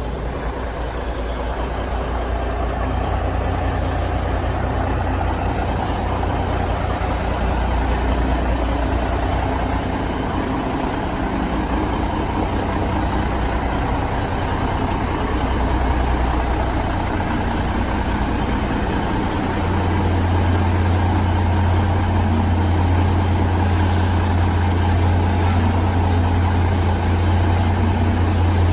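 Big-rig truck diesel engine running steadily, its low drone stepping up in pitch and getting louder about twenty seconds in.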